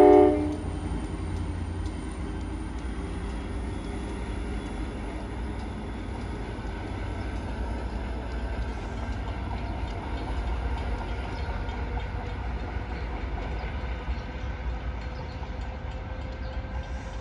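A diesel locomotive's horn cuts off just after the start, then the steady low rumble of a diesel commuter train running away down the track.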